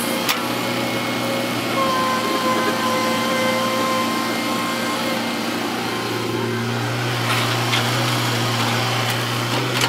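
Heavy diesel earthmoving machinery running steadily with a low engine drone. A thin whine joins for a few seconds from about two seconds in, and there are a few faint clicks.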